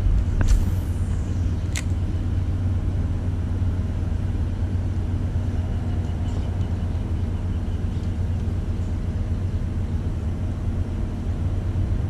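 Steady low rumble of wind buffeting the action-camera microphone, with a few sharp clicks in the first two seconds.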